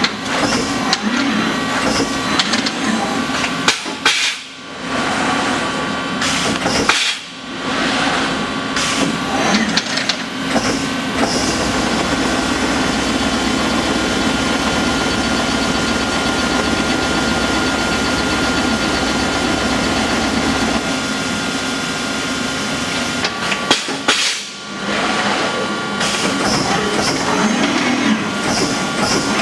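Strippit 1250S CNC turret press running a program: rapid punching strokes over a steady machine hum with fixed tones. There are brief lulls about 4, 7 and 24 seconds in, and a long unbroken run of strokes in the middle.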